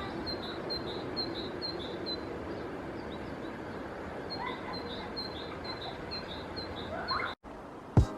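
Steady outdoor background hum with a small songbird repeating a short high note about twice a second in two runs, and a couple of brief rising calls in between; the sound cuts off suddenly near the end.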